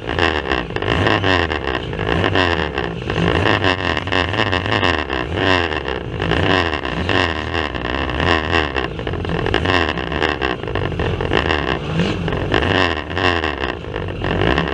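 Banger racing cars' engines running hard and revving during a race, heard through a rough, poor-quality recording.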